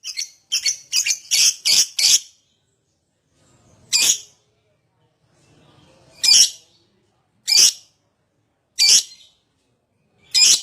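Lovebird giving shrill, squawky calls: a quick run of about six in the first two seconds, then single calls every second or two.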